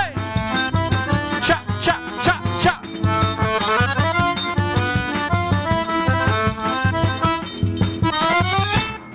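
Forró band playing an instrumental passage, an accordion carrying the melody over a steady bass-drum beat. The music cuts off near the end.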